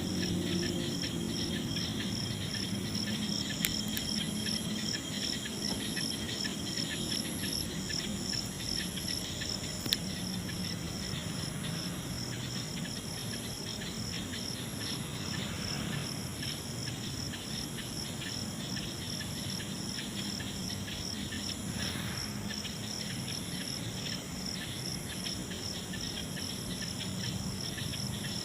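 Night insects, crickets, chirping in a steady pulsing rhythm of about two pulses a second, with a higher trill coming and going above it. Two sharp clicks, about 3.5 and 10 seconds in.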